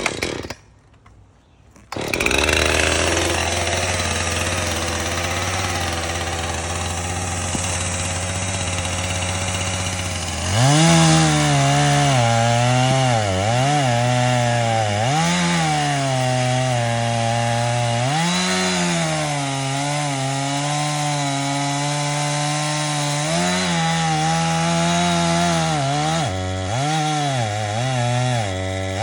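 A chainsaw starts running about two seconds in and runs steadily. About ten seconds in it is revved up and cuts into wood, its engine note dipping and climbing again and again as the chain bites.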